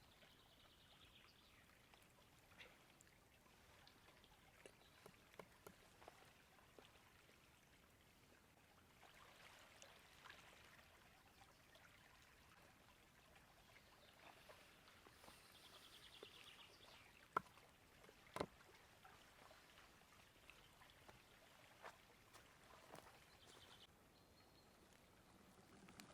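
Faint forest ambience: a river running steadily, with a few short bird trills. Scattered soft clicks, and two sharper clicks about a second apart past the middle.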